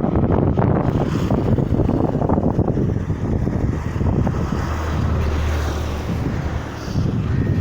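Wind buffeting the microphone: a loud, rough, low rumble with no clear pitch, easing slightly about two thirds of the way through.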